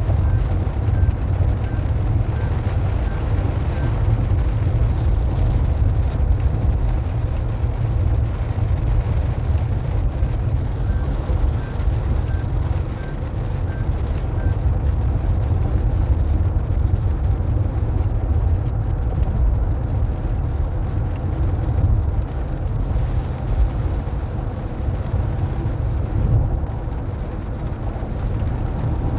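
Steady low rumble of a car on the road, heard from inside the moving car, with rain falling on it.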